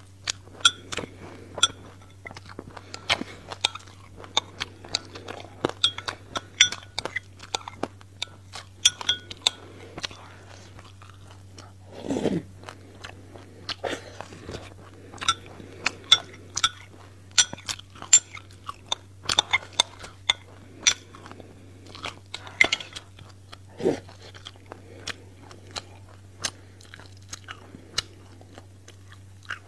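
Close-miked chewing of sesame seeds and passion fruit: a rapid, irregular run of small crisp crunches and crackles as the seeds are bitten, with a couple of short, lower, wetter mouth sounds.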